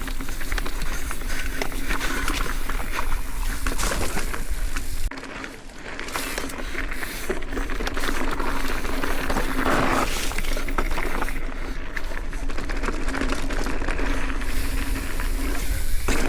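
Wind rushing over the microphone and the rolling noise of a bicycle riding a trail, a steady rushing hiss that dips briefly about five seconds in.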